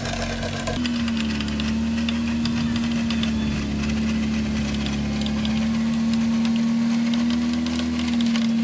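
Electric vehicle winch running under load, a steady whine that starts about a second in, over an idling engine.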